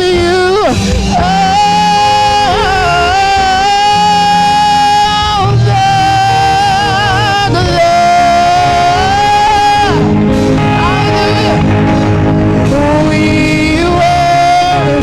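Live worship music: a singer holding long notes with vibrato over a band's backing.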